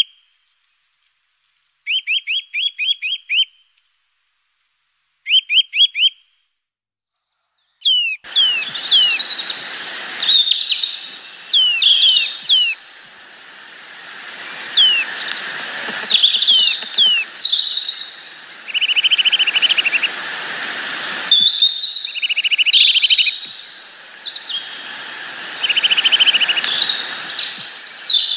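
Small garden songbirds calling and singing: first three short bursts of quickly repeated high notes with silence between, then from about eight seconds a busy mix of several birds' whistles, downslurred calls and short trills over a steady background hiss.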